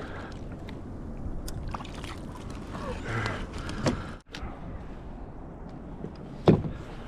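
Handling noise on a kayak: scattered small clicks and knocks, with one louder thump about six and a half seconds in.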